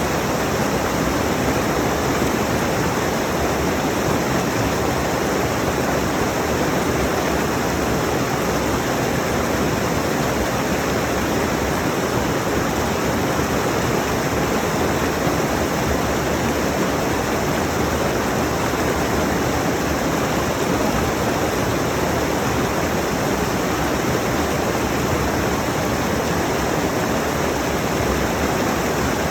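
Rushing mountain stream: water tumbling over rocks in a steady, unbroken rush.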